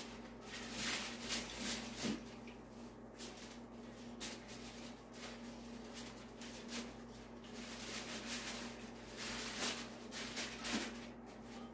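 Irregular rustling and handling noises over a faint steady hum.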